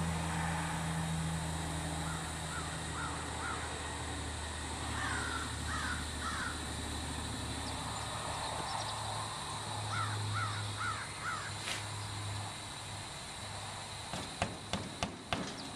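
A crow cawing in three short series of harsh calls, over a low engine hum that fades out about halfway through. Near the end comes a quick run of sharp clicks, the loudest sounds here.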